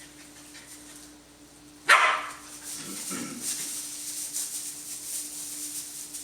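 Norwegian Elkhound puppy giving one loud, sharp bark about two seconds in, then a shorter, softer vocal sound, during rough play with its littermates. A faint steady hum runs underneath.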